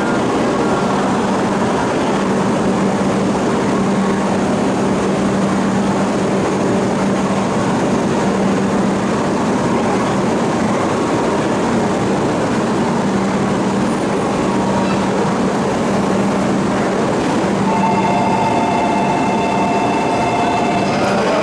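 E3-series Shinkansen train running on the rails: a steady rumble with a constant low hum. About three seconds before the end, a set of steady higher tones joins in.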